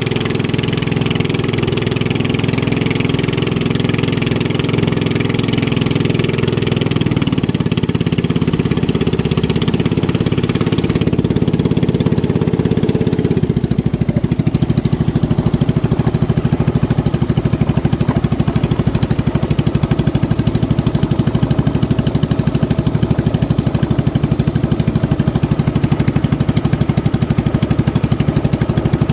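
Racing boat engine running steadily and loudly. About halfway through its tone changes: the upper part drops away and the engine's pulsing becomes more distinct.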